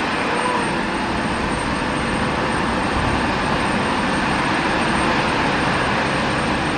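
Jet airliner engines running, a steady even rush of noise with no rise or fall.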